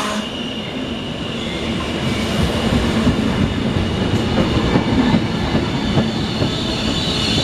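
Passenger coaches of a EuroNight train rolling past close by: a steady rumble of wheels on rail, with several clacks as the wheels cross the rail joints. A thin wheel squeal grows louder near the end.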